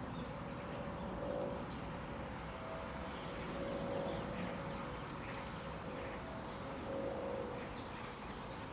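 Outdoor park ambience: a steady background hum with a faint drone that wavers in and out, and a few faint short high ticks scattered through.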